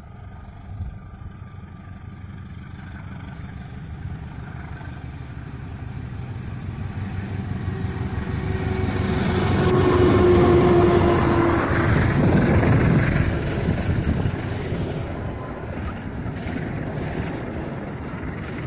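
Diesel-hauled train approaching and passing: a rumbling engine and running noise that grows louder to a peak around ten to thirteen seconds in, then fades as it moves away.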